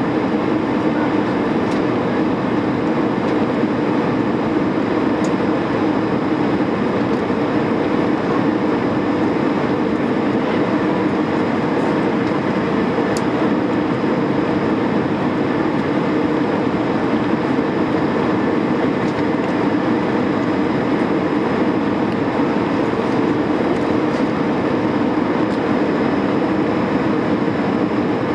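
Steady engine and airflow noise inside the cabin of an Airbus A320 in flight, unchanging throughout.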